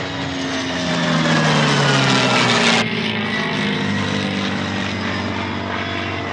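A P-51D Mustang's Packard Merlin V-12 and an A-10's turbofans passing in formation, their engine tones falling in pitch as they go by. The high-pitched part cuts off suddenly about three seconds in, leaving a duller, steady engine drone.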